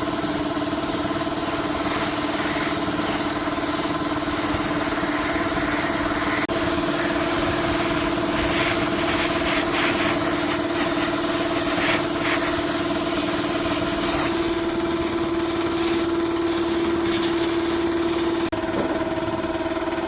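A small motor running steadily with a constant hum, through several edited clips, with faint clicks in the middle.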